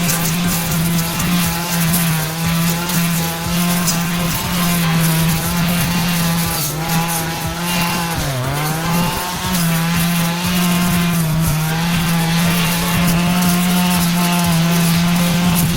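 Brush cutter's small engine running at a high, steady speed. About eight seconds in, its pitch dips briefly under load and then comes back up.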